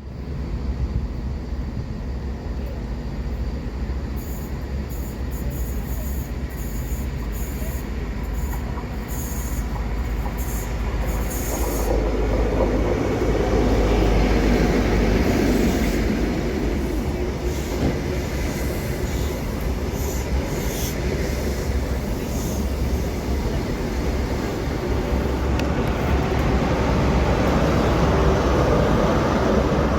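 A train running past on the rails, a steady rumble with brief high-pitched noises in the first few seconds, growing louder around the middle and again near the end.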